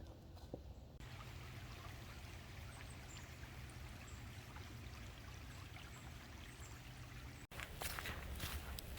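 Steady, quiet trickle of flowing water. Footsteps on a path start near the end.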